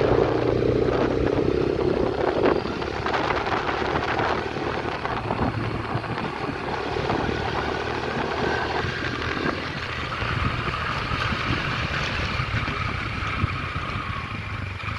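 A 125cc motorcycle engine running steadily while the bike is ridden, with road and wind noise on the microphone.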